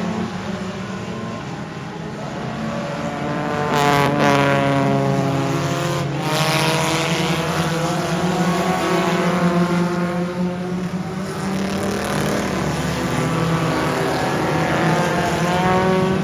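Several race car engines running at speed around a dirt oval, cars passing one after another, the loudest pass coming about four seconds in.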